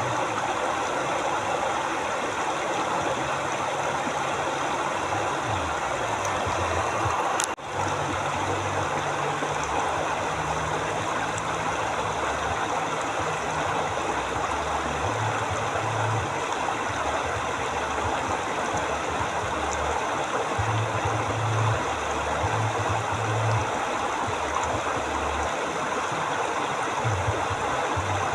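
River water flowing steadily in a continuous rushing wash, with a brief dropout in the sound about seven seconds in.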